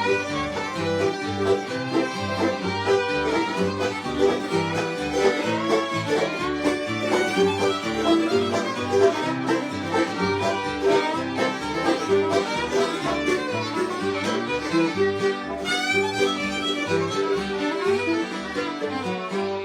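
Instrumental bluegrass: fiddle leading over strummed guitar and banjo, with an even bass beat.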